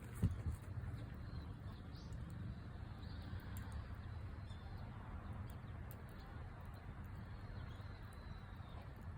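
Campfire burning, with sparse small crackles and pops over a steady low rumble, and one louder thump about a quarter second in.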